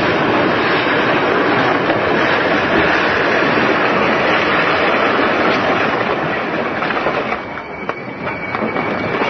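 Locomotive pushing a crushed car along the track: a loud, dense rush of train noise and dragged wreckage. About seven seconds in the noise drops and a steady high-pitched squeal comes in.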